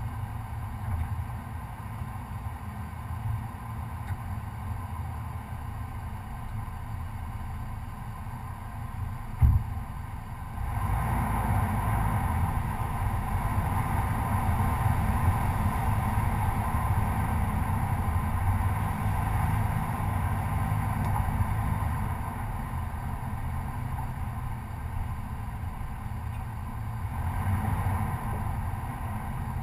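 Chevy Colorado pickup driving on a dirt trail, its engine running and the truck rumbling steadily. There is a single sharp knock about a third of the way in, and just after it the engine gets noticeably louder, then eases off and picks up again near the end.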